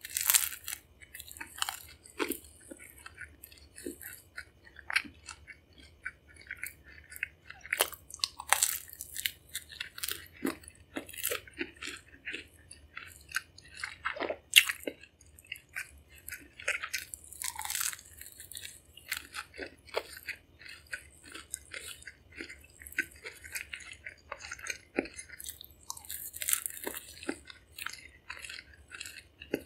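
Chewing and crunching of a cinnamon-sugar churro: a crisp bite about every nine seconds, with irregular crackles and wet mouth clicks between.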